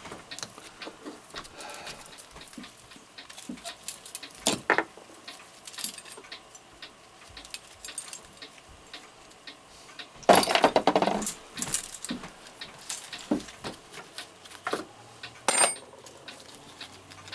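Small brass and steel clock movement parts clicking and clinking as they are handled and set down, with a few louder knocks and one short high metallic ring near the end.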